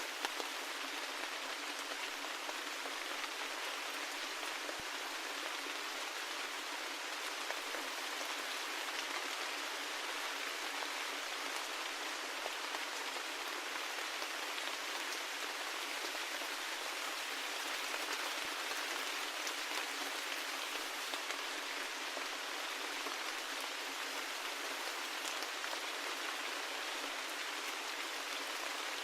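Steady rain pattering, a dense even hiss of drops with small individual drop ticks and no low rumble.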